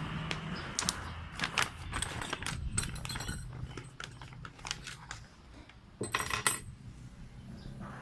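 Small metal parts and fittings clinking and clicking as they are handled, in an irregular run of taps, with a longer rattle about six seconds in.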